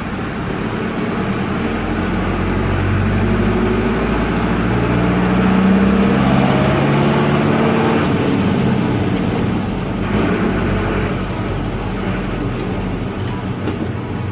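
The air-cooled Deutz F4L912 four-cylinder diesel of an Otokar M-2000 minibus, heard from the driver's cab and running noisily. Its note climbs over the first six seconds under acceleration, then falls back around eight and ten seconds.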